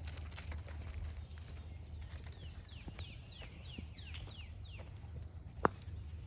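Footsteps on a forest trail over a steady low rumble. Midway, a songbird sings a quick series of about eight falling whistled notes. One sharp tap near the end is the loudest sound.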